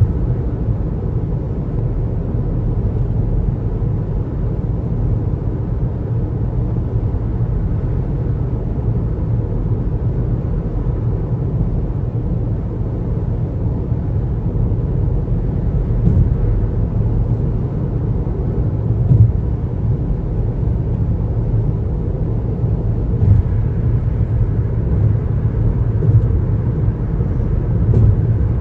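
A car's road noise while driving: a steady low rumble of tyres and engine, with a few faint ticks along the way.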